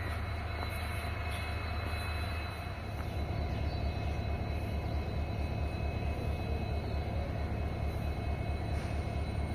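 Diesel-hauled passenger train departing, a steady low rumble that grows a little louder about three seconds in.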